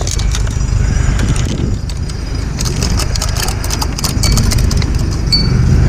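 Extension-cord reel being handled and turned over, its plastic drum and cord giving a run of clicks and rattles that cluster about halfway through, over a steady low rumble.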